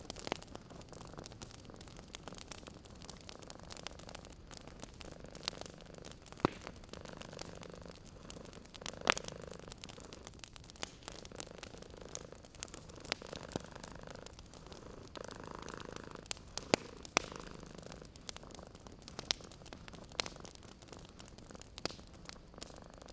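A cat purring steadily in slow swells, over a wood fire crackling with scattered sharp pops; a few louder pops stand out, around a third of the way in and again past the middle.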